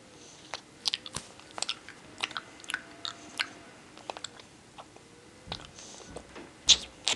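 Close-up chewing of a grape-flavoured chewy candy: irregular wet clicks and smacks of the mouth, a few louder ones near the end.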